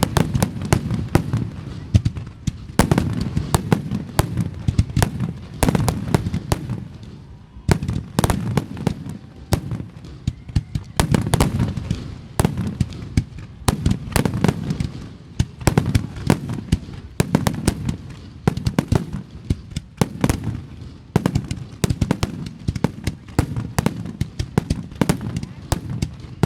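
Fireworks display: a rapid, unbroken barrage of sharp bangs, several a second, over a steady low rumble of booms.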